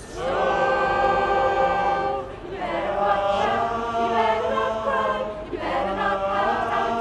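A choir singing in harmony, holding long chords in phrases of about two to three seconds with short breaks between them.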